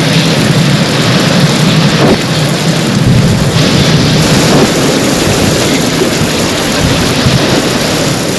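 Heavy rain falling steadily, with a low rumble of thunder rising beneath it from about three seconds in and fading near the end.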